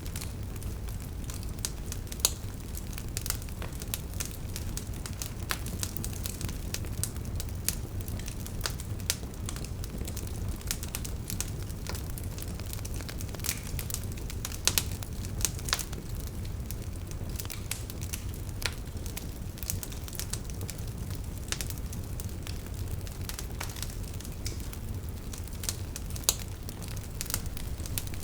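Wood fire burning: logs crackling with frequent sharp pops over a steady low rumble, a few pops standing out louder.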